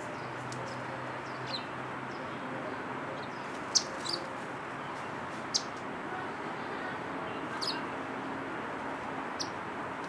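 Small birds giving short, high chirps, about six scattered through, the loudest a little under four seconds in, over a steady background hum.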